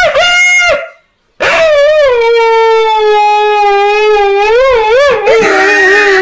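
Dog howling: a howl that breaks off about a second in, then after a short pause a long, drawn-out howl that slides down in pitch and wavers before running into another.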